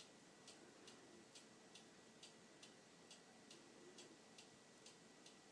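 Near silence with faint, even ticking, a little over two ticks a second.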